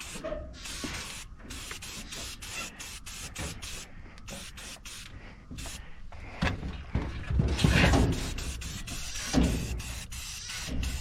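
White Rust-Oleum aerosol spray paint can hissing in repeated short bursts with brief breaks between them, with some low rumbling between about six and eight seconds in.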